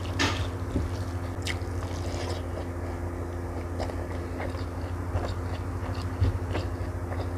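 Close-miked eating sounds of rice and omelette eaten by hand: chewing and scattered wet mouth clicks, with fingers scraping and pressing rice against a wooden plate. A steady low hum runs underneath.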